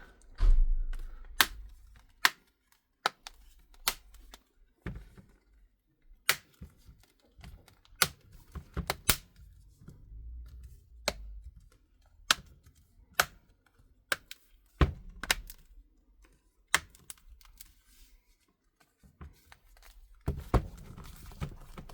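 Irregular sharp plastic clicks and snaps as the Samsung Galaxy Tab A T580's back cover is pressed on around its edges, its clips latching into the frame.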